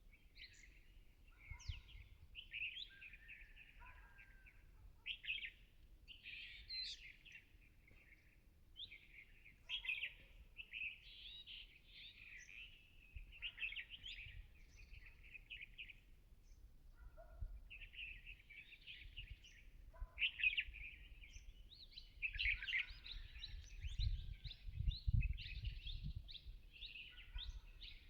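Small birds chirping and chattering in quick, dense clusters of high calls, with short pauses between them.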